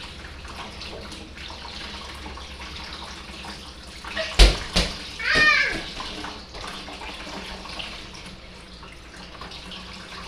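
Water running steadily from a tap while Kona crabs are rinsed and cleaned of their guts. About four and a half seconds in come two sharp knocks close together, then a brief high voice.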